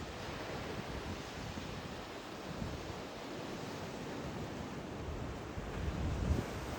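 Sea waves washing on a shore, a steady rushing that swells a little near the end.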